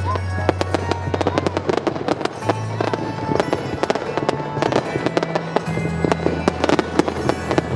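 Fireworks bursting in quick succession, a dense run of sharp bangs and crackles, over music with a low, held bass line.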